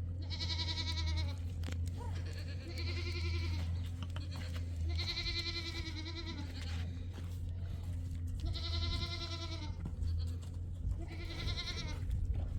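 Goat bleating repeatedly: five high, quavering calls, each about a second long, a couple of seconds apart, over a steady low hum.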